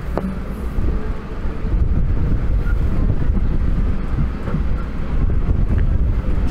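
MMTS electric suburban train running, heard from inside at an open window: a steady low rumble of the wheels on the track, with wind noise on the microphone.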